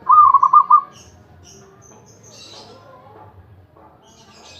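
Zebra dove (perkutut) cooing once at the start, a short phrase of quick, pulsed notes lasting under a second, followed by a few faint high chirps from other small birds.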